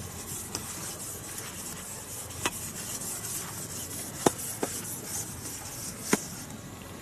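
Steady rubbing, rustling noise with four sharp clicks, the loudest about four seconds in.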